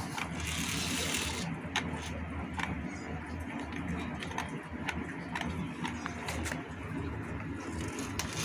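Small electric motor and plastic gearbox of a homemade RC toy tractor running, a steady hum broken by scattered clicks and scrapes.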